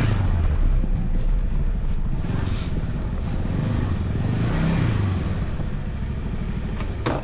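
Scooter engine running, its pitch rising and easing off with the throttle a couple of times, with a sharp click near the end.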